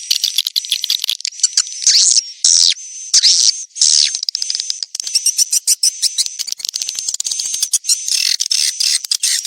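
Swiftlet call recording of the kind played to lure swiftlets to nest: dense, rapid high twittering and chirping, with a thin steady high tone running underneath.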